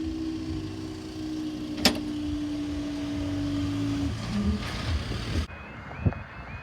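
Automatic half-barrier level crossing booms rising: a steady electric motor hum from the barrier mechanisms, with one sharp clack about two seconds in. The hum stops about four seconds in.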